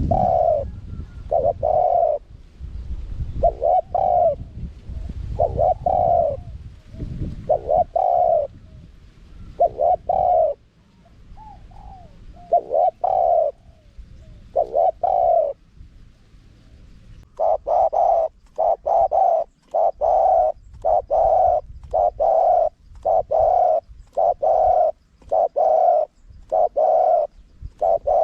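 Spotted dove cooing in a repeated series of short coos, spaced out at first, then from about two-thirds of the way in a faster, steady run of about two coos a second. A low rumble sits under the first several seconds.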